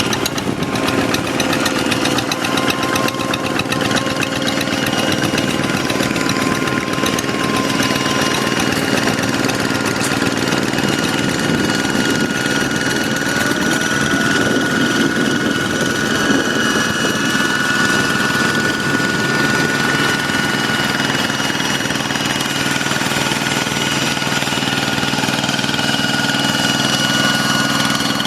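Two-wheel hand tractor's single-cylinder diesel engine running steadily at a constant speed with a knocking beat, as the tractor works a flooded rice paddy.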